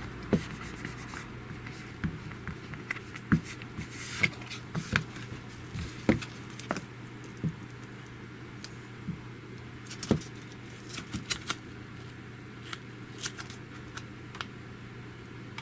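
Scattered small clicks, taps and scrapes of hands handling a phone and working at a plastic screen protector, over a faint steady low hum.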